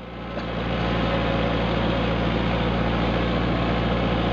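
Kubota tractor engine running steadily with a low, even hum. It swells up over the first second and then holds a constant level.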